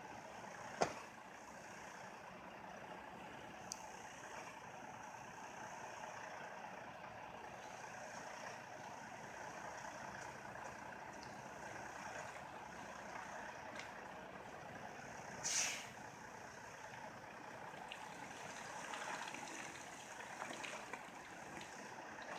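A truck stuck in snow running steadily while its drive tires spin. A sharp click comes about a second in, and a short burst of hiss about fifteen seconds in.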